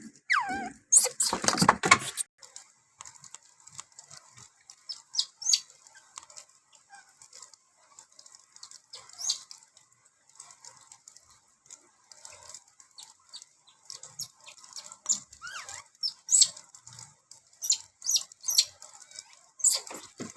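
A baby monkey calling: one loud squeal that falls in pitch about a second in, then scattered short chirps and clicks.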